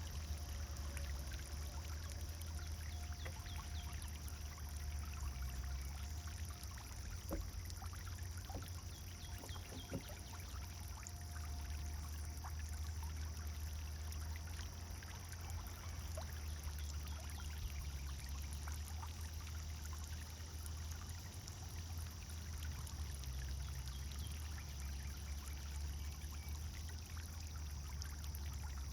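Pond fountain water splashing and trickling steadily, with a low rumble beneath and a faint thin tone that comes and goes in the first half.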